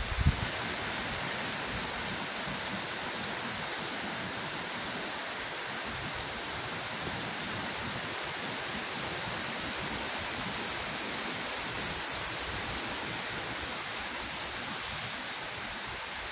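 Heavy rain falling steadily on grass and tree leaves: an even, unbroken hiss with a strong high-pitched edge.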